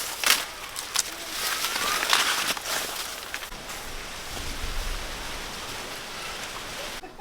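Steady rustling hiss with several sharp snaps and cracks in the first few seconds and a low rumble a little past the middle; the hiss cuts off suddenly near the end.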